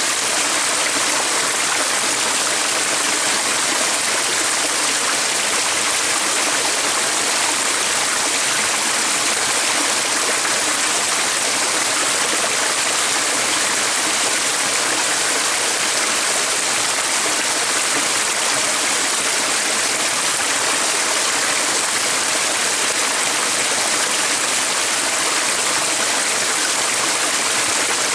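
A stream of water flowing steadily, an even rushing sound that does not change.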